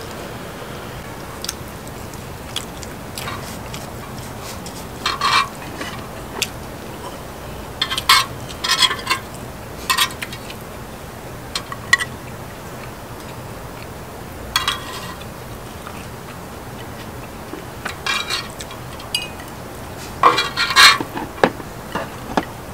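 Eating utensils clinking and scraping against dishes in scattered short clatters, with clusters about eight to ten seconds in and again near the end.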